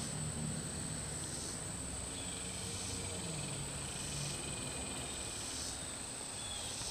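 Insects calling outdoors: a steady high-pitched drone with a rasping layer that swells about every second and a half, over a steady low background rumble.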